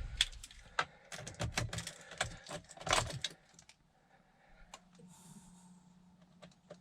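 A run of light clicks and rattles in a vehicle cab as someone handles the keys before starting it, then a faint steady hum for a couple of seconds near the end.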